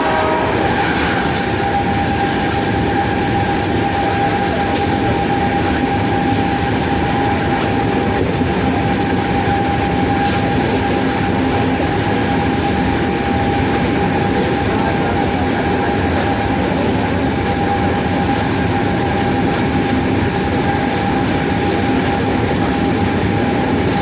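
WAP-7 electric locomotive running steadily, its three-phase traction motors giving a constant high whine over the rumble and rail noise. A horn cuts off right at the start.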